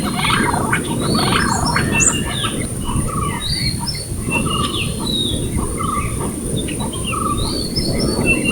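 Orange-breasted green pigeon calling: short whistled notes repeated about once a second, mixed with higher chirps from other birds, over a steady low background noise.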